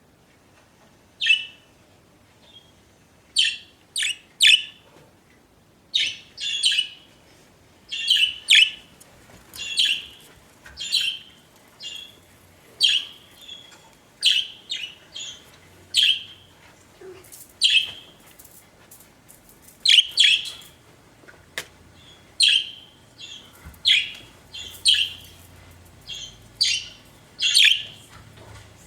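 Budgerigars chirping: short, bright calls repeated every second or so, some in quick pairs or clusters.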